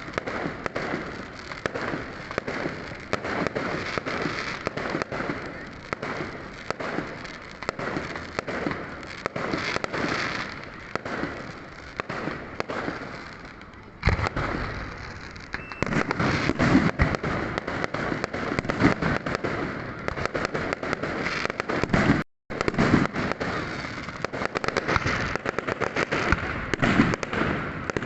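New Year's fireworks going off in a dense, continuous barrage of bangs and crackling, with a short lull and then a sudden loud bang about halfway through, and a brief drop to silence about two-thirds through.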